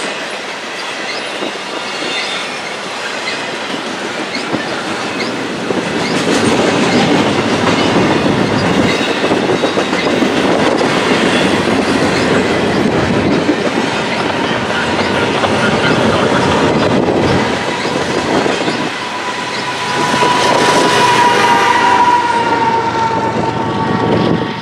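Double-stack intermodal well cars rolling past at speed: a steady rumble of steel wheels on rail with clicking over the rail joints, and a high wheel squeal about twenty seconds in, before the sound falls away at the end as the last car clears.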